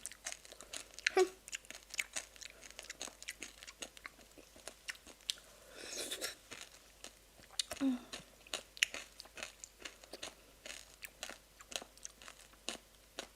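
A person chewing sweet granadilla (热情果) pulp close to the microphone: wet mouth sounds with many small crisp crunches as the seeds are bitten. There are a couple of brief vocal sounds in between.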